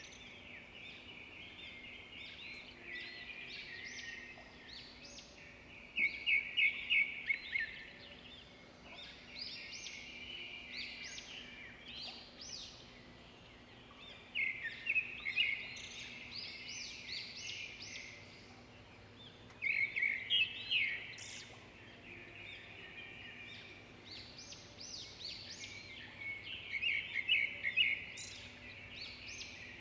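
Birds chirping, with a loud burst of rapid trills every five to seven seconds and softer chirps in between.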